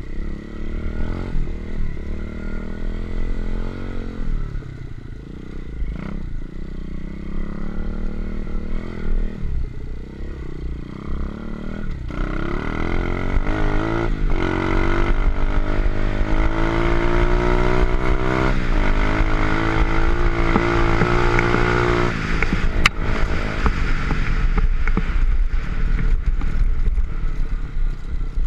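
125cc pit bike engine revving up and down as the bike is ridden, its note rising and falling again and again, loudest in the second half. About twenty-two seconds in the engine note falls away, with a sharp click just after, leaving a low rumble.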